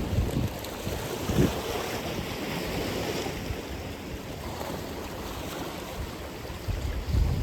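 Atlantic Ocean surf washing in steadily, with low rumbles from wind buffeting the microphone a few times, the strongest near the end.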